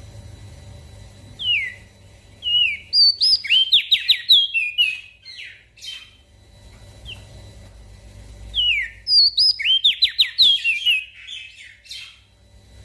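Crested darkeye (opior jambul) singing two bursts of fast, high whistled notes, each opening with downward-sliding whistles, about one and a half and eight and a half seconds in. A faint low hum runs underneath.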